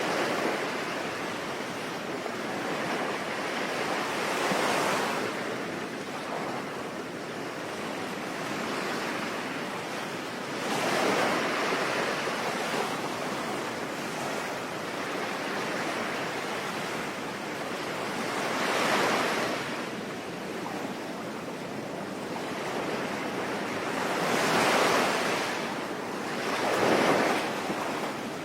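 Sea waves breaking and washing in over a steady hiss of rain, with swells about every six to eight seconds.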